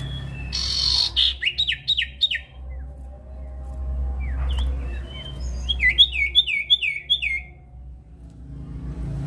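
Common iora (sirtu, cipoh) singing: two runs of quick repeated down-slurred whistled notes, the first about a second in and the second past the middle, over a steady low hum.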